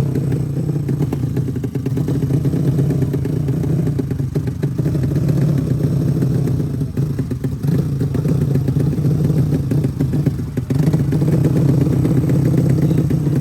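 Race motorcycle engine running with a steady note, dipping briefly about seven and ten seconds in.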